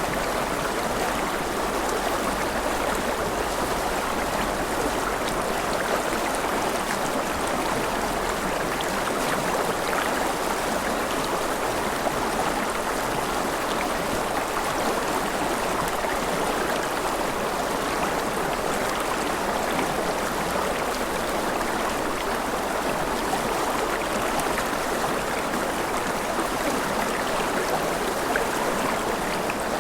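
Mountain river flowing over rapids: a steady, even rush of water.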